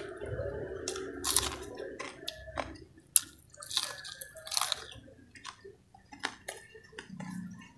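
Close-up chewing and biting of a fried vegetable fritter (bakwan), with scattered crunches and wet mouth clicks.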